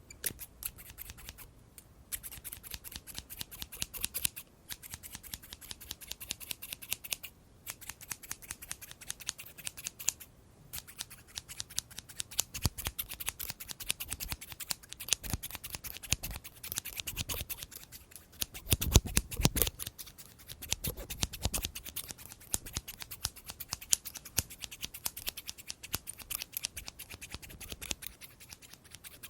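Scissors snipping over and over, several quick cuts a second, with a few brief pauses. The cuts grow louder and heavier about two-thirds of the way through.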